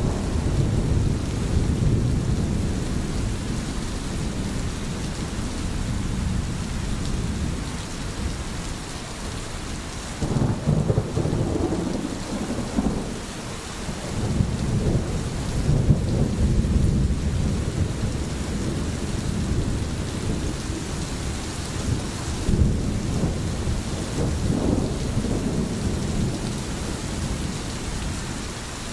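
Steady rain falling, with low rolling rumbles of thunder that swell and fade several times.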